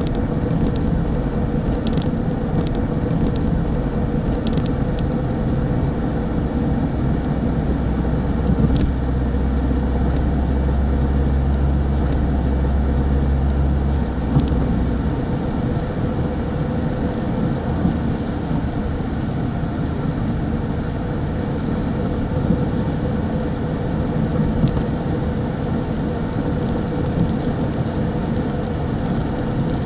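Car driving along the road: a steady engine and road rumble with a constant hum and a few brief faint clicks. The deepest part of the rumble drops away about halfway through.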